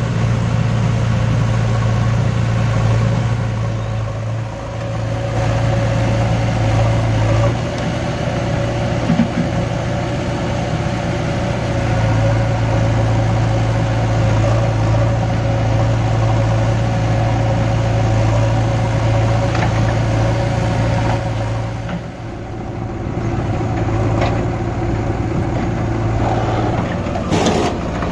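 Tractor diesel engine running steadily with a low, even note that dips briefly a couple of times, with a few short knocks near the end.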